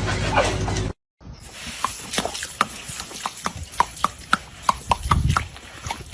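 A steady noisy sound cuts off about a second in. After a brief silence comes a string of sharp, irregular knocks or clicks, several a second, over low background noise.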